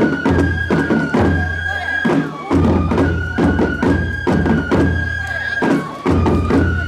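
Japanese festival music: a high flute holding long notes over sharp percussion strikes coming several times a second.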